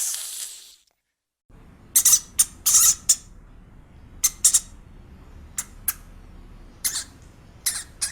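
A hissing noise fades out within the first second. After a brief gap, a small animal gives about a dozen short, high-pitched calls over low background noise, some in quick pairs.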